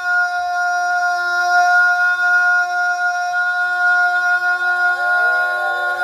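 A singer holding one long, steady sung note live, the pitch unwavering throughout. About two-thirds of the way through, other voices with sliding pitches start to come in underneath it.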